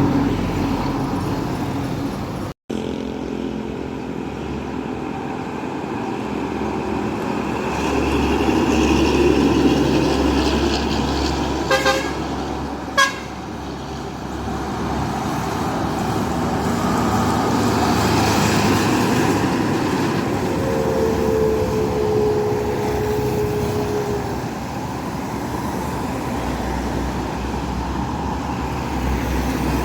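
Road traffic with heavy vehicles passing, a continuous engine and tyre rumble that swells and fades. Two short horn toots come a second apart about twelve seconds in, and later a horn-like tone is held for about four seconds, sliding slightly lower in pitch.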